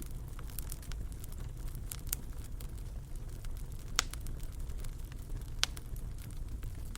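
Wood fire crackling in a fireplace over a steady low rumble, with scattered small pops. Two sharper pops stand out, one about four seconds in and another about a second and a half later.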